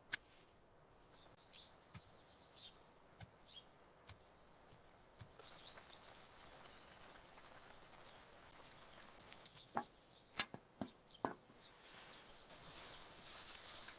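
Quiet background with a few sharp clicks or knocks: one at the very start, then a quick cluster of four or five about ten seconds in.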